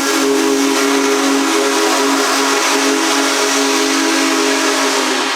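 Union Pacific Big Boy 4014's steam whistle blowing one long chord of about five seconds, cutting off sharply, over a loud hiss of steam.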